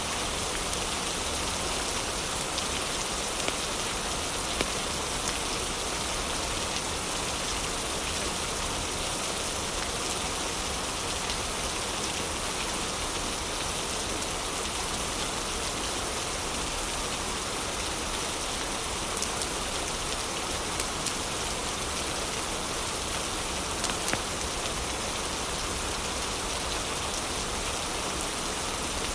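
Heavy rain falling steadily, with a few scattered crackles from a wood fire in a fireplace.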